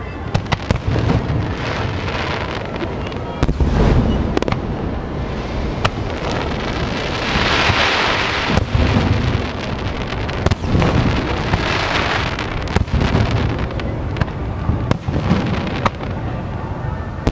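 Aerial fireworks display: aerial shells bursting in close succession with deep booms and sharp cracks. A crackling hiss swells up about halfway through and again a few seconds later.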